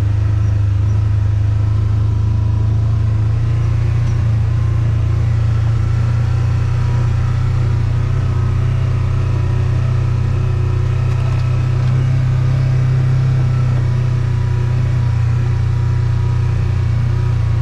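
A small vehicle's engine running steadily at an even pitch, a loud low hum while riding.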